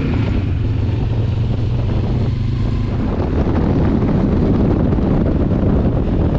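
Benelli TRK 702's parallel-twin engine running at a steady cruising speed with wind buffeting the microphone. About halfway through, the engine's steady note fades under a louder rush of wind.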